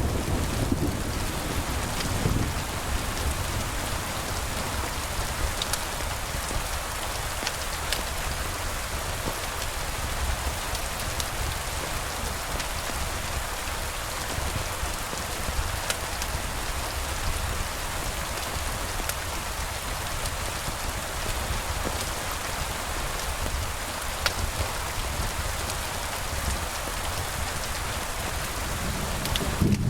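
Steady rain falling, with a low rumble of thunder dying away in the first two seconds and a few faint sharp clicks scattered through it.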